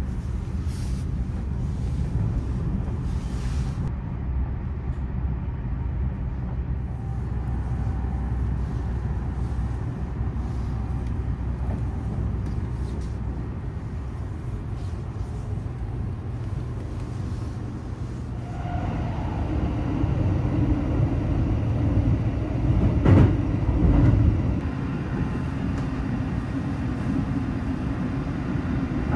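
Running noise of the Sunrise Express sleeper train, a 285-series electric train, heard from inside the carriage: a steady low rumble of wheels on rail. About two-thirds through it grows louder and brighter, with one short, loud clatter a few seconds later.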